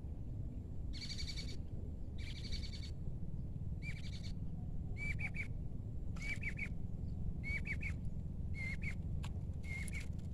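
A bird calling over and over: a short pitched call about every second and a bit, starting about a second in, the later calls ending in a rising hook. A steady low rumble runs underneath.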